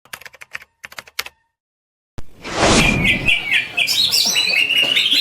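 Green leafbird (cucak ijo) singing a fast, continuous run of chirping, warbling notes. The song starts about three seconds in, right after a short burst of rushing noise, and a few sharp clicks come in the first second or so.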